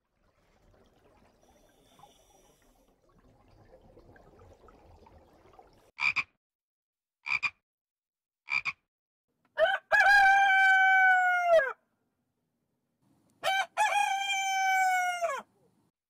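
A frog croaking three short times, about a second and a half apart, then two long crowing calls that each fall away in pitch at the end. These are the loudest sounds; before them is only a faint hiss.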